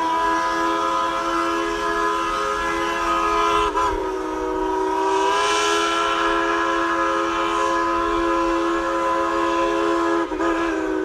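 Steam whistle of Tweetsie Railroad locomotive No. 190 blowing one long, steady chord of several notes. It wavers briefly about four seconds in and again near the end.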